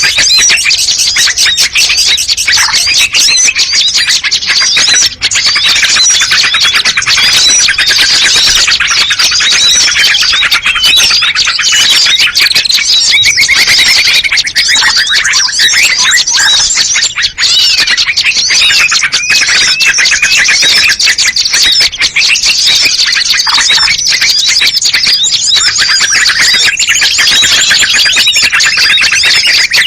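Loud, unbroken chorus of many small songbirds chirping and twittering over one another: a mixed bird-lure (pikat) recording used to call in small birds.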